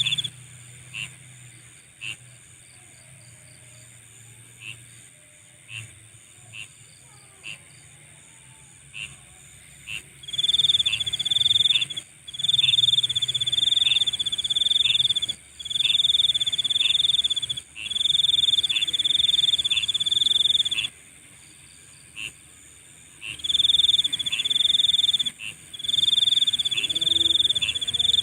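Night chorus of trilling insects: at first only short single chirps, then from about a third of the way in loud high-pitched trills in bouts of one to two seconds, with chirps in the gaps, over a steady very high buzz.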